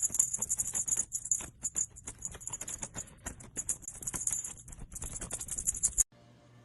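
Fast, continuous rattling like a shaken maraca, cutting off abruptly about six seconds in.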